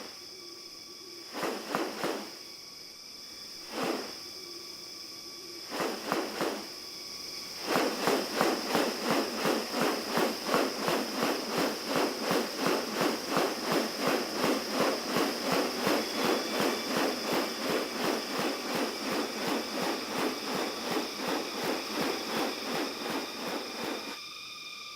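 Rainforest insects drone at a few steady high pitches. Over them come a handful of separate rasping strokes, then from about eight seconds a fast, even run of them, about two or three a second, that stops shortly before the end.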